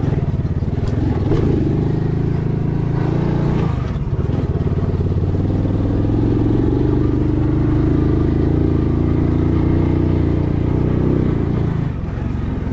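A vehicle engine running under way, its pitch shifting with the throttle: a dip about four seconds in, then a higher steady note for several seconds before it eases off near the end.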